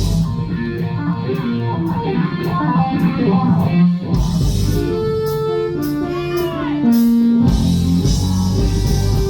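Live rock band playing: electric guitar over drums and cymbals, with a run of held notes stepping downward midway.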